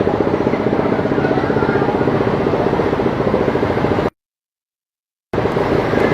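A vehicle engine running steadily with a fast, even pulse. The sound cuts out completely for about a second around two-thirds of the way in, then resumes.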